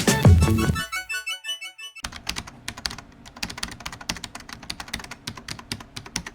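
Music ends about a second in with a few fading notes, followed by a rapid, irregular run of sharp clicks like keys typing.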